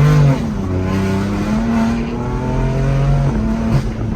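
Turbocharged BMW engine under full throttle, pulling hard through the gears. Its pitch climbs steadily and drops at an upshift a moment in and again about three and a half seconds in.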